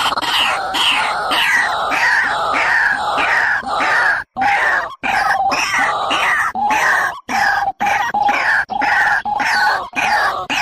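Bird calls used as a trapping lure: a fast series of harsh, downward-sliding call notes, about two a second, broken by a few short gaps.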